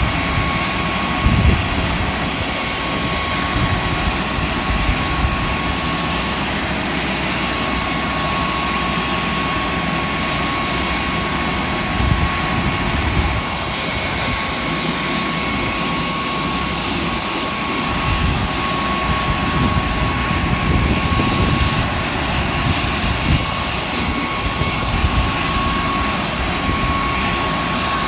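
Panavia Tornado GR4's twin RB199 turbofans running on the ground: a steady jet roar with a constant high whine, and low rumbling gusts now and then.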